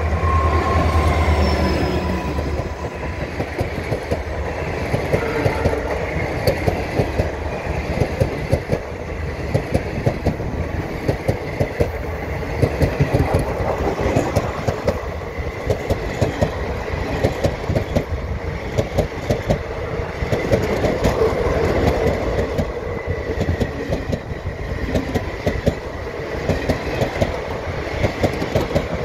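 Passenger train passing close by: a diesel locomotive's heavy rumble in the first couple of seconds, then the coaches' wheels clattering steadily over the rail joints, a rapid stream of clicks and knocks.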